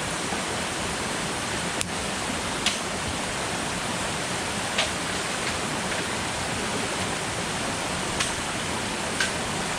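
Steady rushing water noise, even throughout, with about five short sharp taps scattered through it.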